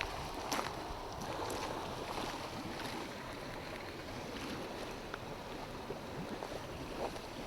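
Steady outdoor rushing noise with a few faint clicks scattered through it.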